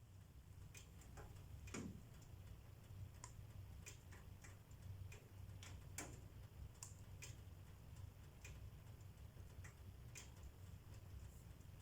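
Faint wood fire crackling in a fireplace: sharp pops and snaps at irregular intervals over a steady low rumble.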